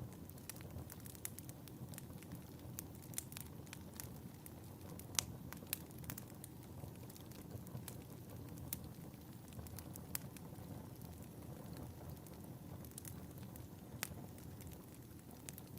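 A fireplace fire burning with a steady low rush of flame and irregular sharp crackles and pops; the sharpest pop comes about five seconds in, and another near the end.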